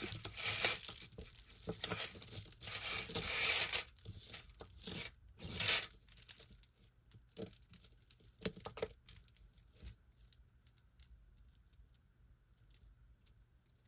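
Costume jewelry being handled and sorted by hand: a dense run of small metal pieces clinking and rattling for about four seconds, then a few separate clicks, then quiet for the last few seconds.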